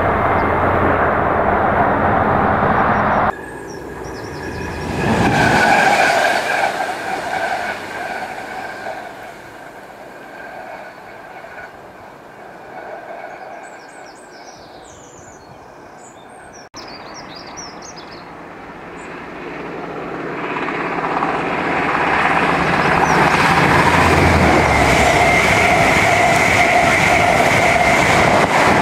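Passing trains on a main line, in edited clips. A loud train sound cuts off abruptly about three seconds in, then another swells and fades. From about twenty seconds a diesel passenger train draws near and passes close at speed: a steady loud rush of wheels on rail with a high whine held over it.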